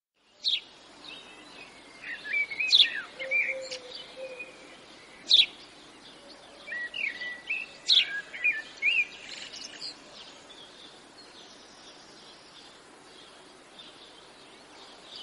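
Birds chirping and singing: short warbling phrases about two seconds in and again around seven to nine seconds, with sharp single chirps between, over a steady background hiss that carries on alone in the second half.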